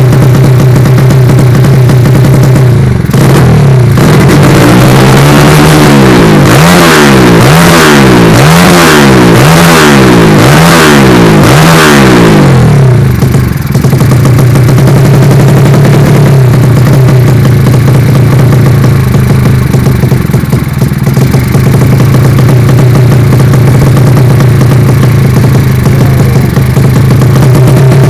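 Yamaha Vega underbone motorcycle with its engine built up to 185 cc, idling loudly with a deep exhaust note, then revved in a run of about six quick throttle blips a few seconds in, before settling back to a steady idle.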